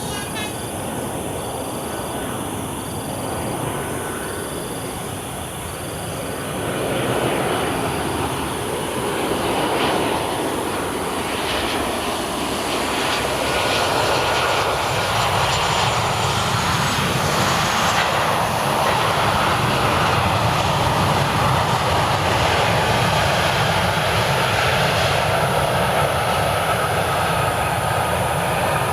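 Boeing 737-800 jet engines on a landing approach: a steady roar that grows louder about seven seconds in and stays loud, with a faint whine over it.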